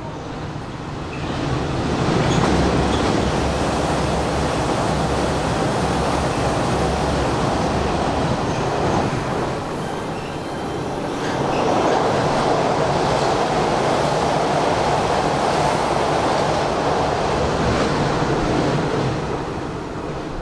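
Hanshin Railway electric train running on the track at the station, with loud wheel-and-rail noise over a steady low motor hum. It builds about a second and a half in, dips briefly about ten seconds in, then rises again and eases off near the end.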